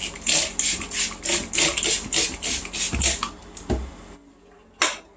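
Trigger spray bottle of Spray Nine cleaner being pumped rapidly, about four hissing squirts a second, onto a dirty vacuum filter. The spraying stops about three seconds in, followed by a couple of soft knocks and one more short hiss near the end.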